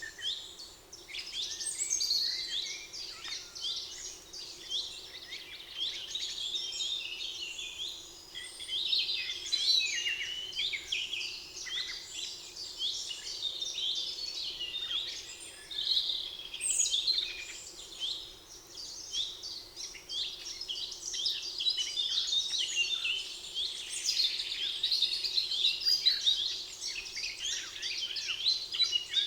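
A chorus of many songbirds singing at once, with dense overlapping high chirps and trills that never pause.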